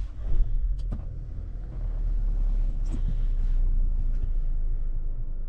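A steady low rumble, with a few faint clicks about one second and three seconds in.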